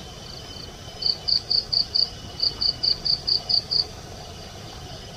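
An insect chirping in short, evenly spaced high-pitched pulses, about five a second, in two runs starting about a second in and stopping near the four-second mark, over a faint steady high whine.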